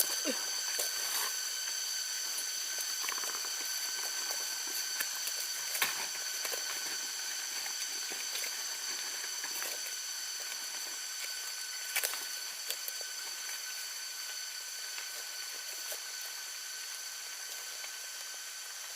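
Steady high-pitched drone of insects, several unchanging tones over a hiss, with a few sharp clicks or snaps about six and twelve seconds in.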